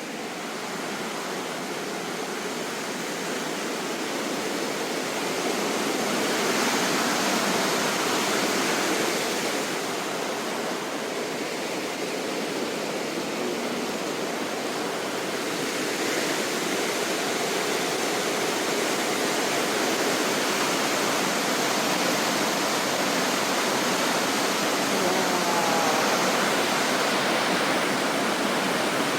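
Brúarfoss waterfall: steady rushing of falling water, rising somewhat in level about six seconds in.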